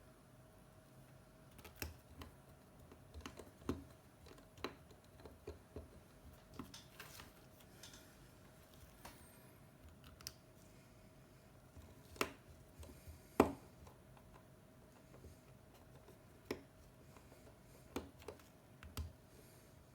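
Irregular small clicks and taps of metal tools and phone parts being handled during an iPhone 7 screen repair, with one sharper tap about two-thirds of the way through, over a faint steady hum.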